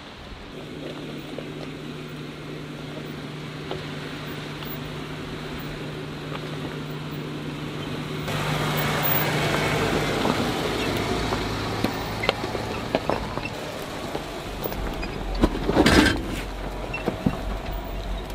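A Jeep driving a rough four-wheel-drive track: a steady engine hum under tyre and track noise that grows louder about eight seconds in. There are scattered knocks and a loud jolt near the end.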